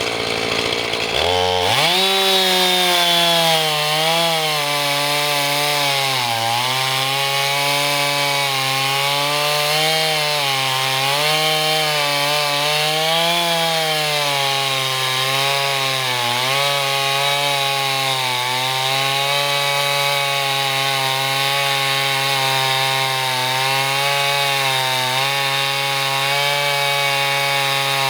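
Husqvarna 445 two-stroke chainsaw on a Granberg Alaskan chainsaw mill, ripping lengthwise through an oak log at high revs under load. Its pitch climbs about a second in, then sags and recovers every few seconds as the chain loads up in the cut.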